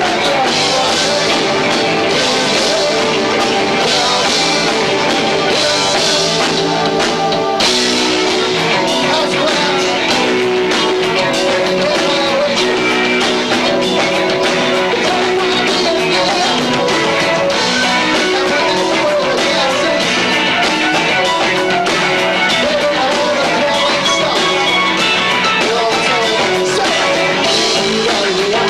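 Live rock band with two drummers, bass, guitar and vocals, playing loud and continuous, recorded through a 1990s camcorder microphone with low-fi, distorted sound.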